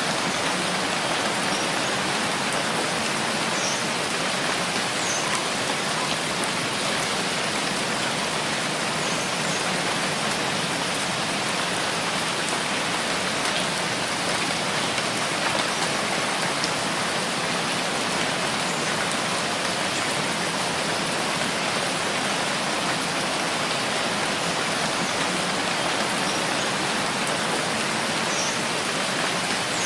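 Steady rainfall: an even, unbroken hiss of many drops, with no change in level.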